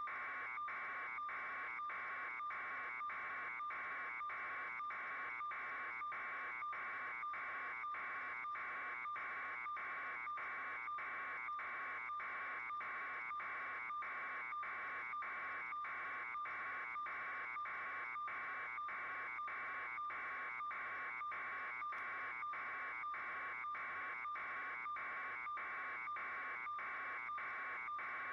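Steady electronic buzzing tone that pulses evenly about twice a second, unchanging throughout.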